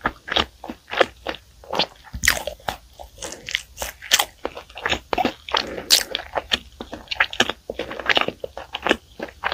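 Close-miked chewing of bakery bread and pastry: irregular crisp crunches and moist mouth sounds, several a second.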